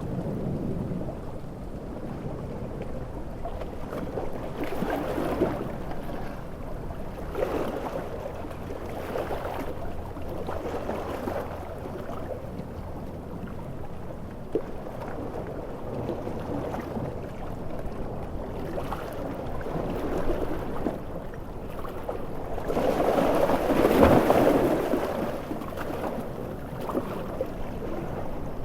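Ocean waves surging and breaking in a steady rush, swelling every couple of seconds, with a larger wave breaking near the end.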